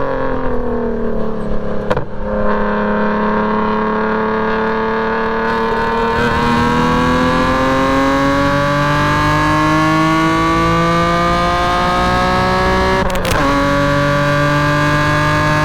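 BMW E46 M3's S54 straight-six with a straight-piped exhaust, run hard on track: the note eases slightly, then climbs steadily under full throttle for about ten seconds. About thirteen seconds in it breaks off for an upshift, drops in pitch, and starts climbing again in the next gear.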